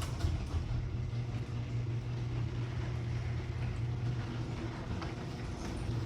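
Garage door opener running with a steady buzzing hum as a door on new premium nylon rollers, freshly lubricated, travels smoothly without rattling or screeching. It is heard as a recording played back.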